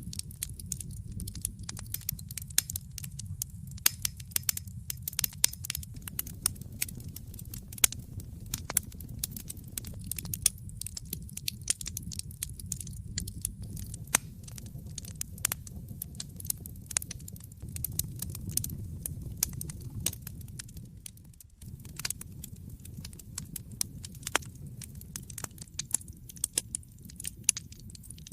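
Wood fire in a fireplace crackling: a steady low rumble of flames with frequent sharp pops and snaps. The sound dips briefly about three-quarters of the way through.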